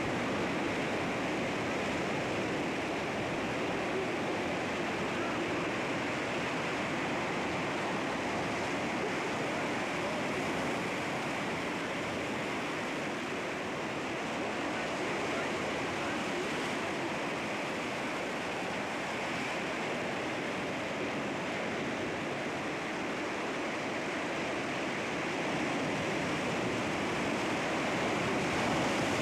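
Sea waves washing against rocks: a continuous, steady rush of surf that swells slightly near the end.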